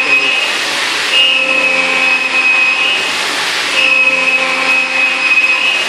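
CNC milling machine's spindle and 3-flute carbide endmill at 8,000 rpm trochoidal-milling 6082 aluminium. A loud cutting whine with overtones that swells and eases in a cycle of about two and a half seconds, as the cutter loops into and out of the material.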